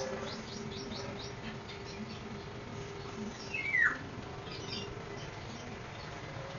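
Small birds chirping: a quick run of short high chirps, then one louder call that slides down in pitch about halfway through, and a few more chirps, over a faint steady hum.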